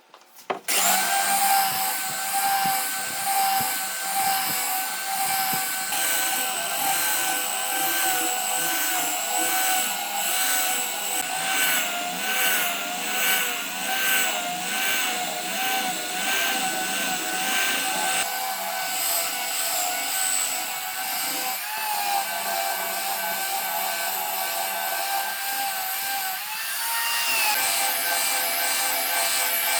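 Electric power tool starting abruptly and running on wood with a steady high motor whine, its pitch wavering as the load changes and dipping briefly twice near the end.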